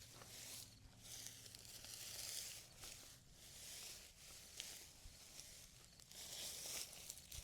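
Hands rustling and pulling through dry straw mulch and plant matter in a potato bed, in several short scratchy swells with a few small clicks.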